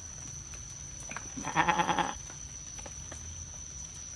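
A goat or sheep bleats once, a wavering call about half a second long, near the middle.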